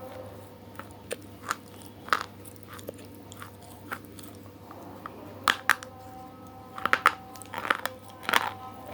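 Crunchy food being bitten and chewed: sharp crunches come in irregular clusters, louder and closer together in the second half.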